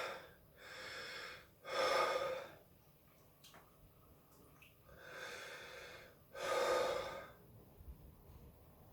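A man breathing hard through his mouth, four heavy breaths in two pairs, panting against the burn of a very hot dried chilli in his mouth.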